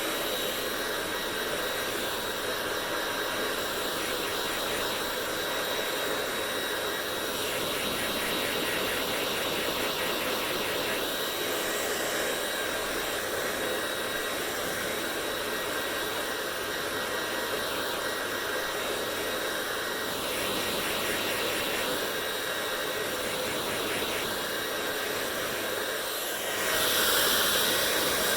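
Hair dryer running with a steady rushing hiss and a faint high whine. Near the end it gets louder and brighter, then holds steady.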